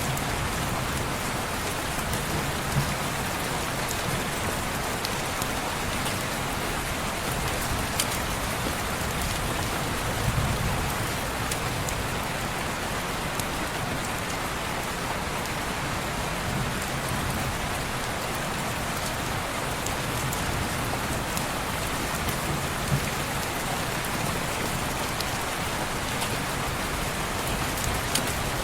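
Steady rain falling on window glass, an even hiss with a few light ticks of single drops. A soft low rumble swells briefly about ten seconds in.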